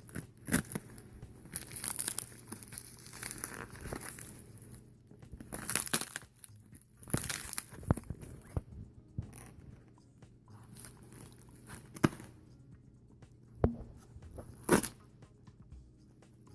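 A Mora knife cutting into tightly wrapped packaging, with irregular tearing, crinkling and scraping as the wrapping is worked open by hand, broken by a few sharp clicks and knocks.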